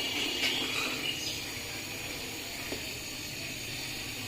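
Steady rain falling, an even hiss with a few faint clicks.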